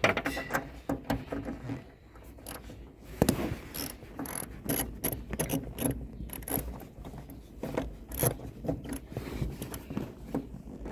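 Ratchet wrench clicking in uneven runs of short clicks as the upper bolt of a rear shock absorber is tightened.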